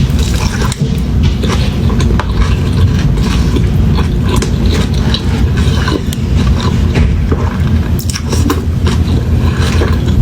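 Close-miked chewing and biting of food, with many short crisp crunches over a constant low rumble.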